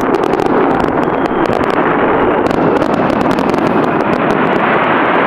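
Fireworks crackling densely and continuously: a steady loud hiss of many tiny pops overlapping, with sharper snaps scattered throughout.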